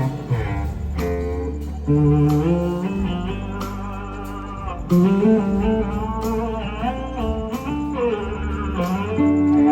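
Electric slide guitar soloing over a live blues-rock band, the notes sliding up and down between held pitches, with bass and drums underneath.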